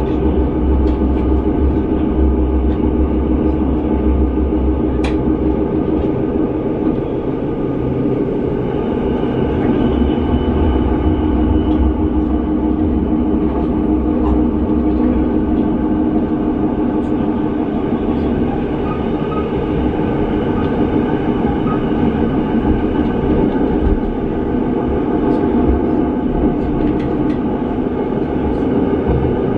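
Passenger train running at steady speed, heard from inside the carriage: a continuous rumble of wheels on rails with a steady motor hum and a few sharp clicks from the track.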